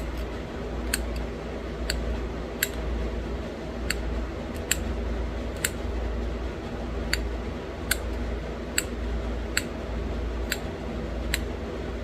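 Pressure flaking a small stone bird point: a sharp click roughly every second as each small flake snaps off the edge, about a dozen in all.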